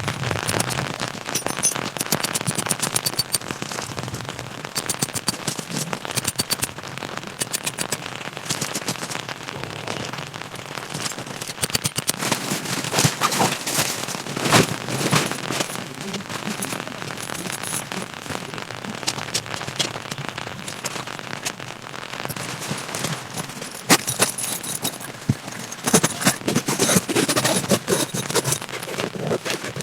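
Rain falling, full of dense sharp crackling taps, with louder clusters about halfway through and near the end.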